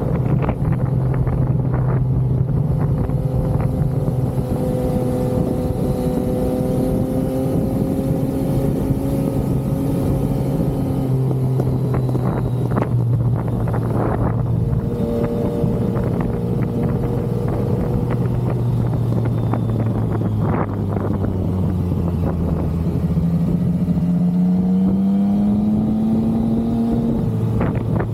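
Yamaha XSR900's inline three-cylinder engine under way on the road, holding a steady pitch, dropping about twelve seconds in, then rising steadily as it pulls through a gear before falling again near the end, like an upshift. Short gusts of wind noise hit the microphone now and then.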